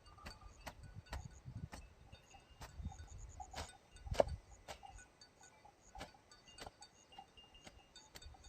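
A series of sharp, irregular clicks or taps, about one to two a second, the loudest a little after four seconds in, with faint short high chirps between them.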